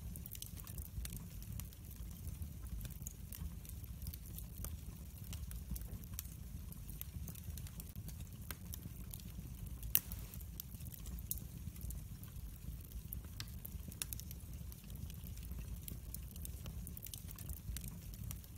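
Wood fire burning in a fireplace, with a low steady rumble of flames and scattered crackles and pops; one louder pop about ten seconds in.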